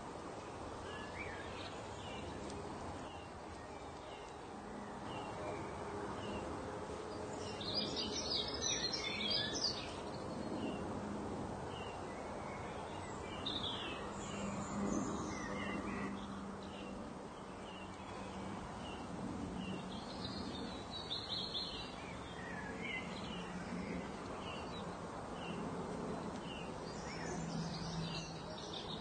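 Birdsong ambience: a bird chirping over and over at an even pace, with bursts of fuller, busier song every six seconds or so, over a steady background hiss.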